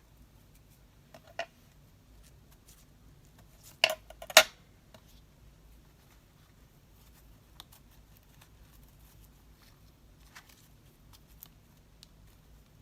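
Craft-table handling sounds: a few short sharp clicks and snips, the loudest a quick cluster about four seconds in, with faint light ticks of paper and tools in between.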